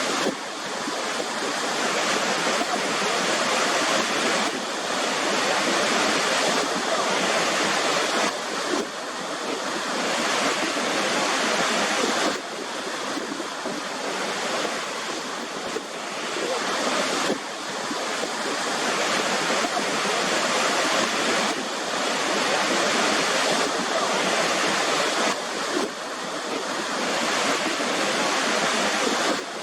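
Waterfall: a steady, dense rush of falling water, with brief sudden dips in level every four seconds or so.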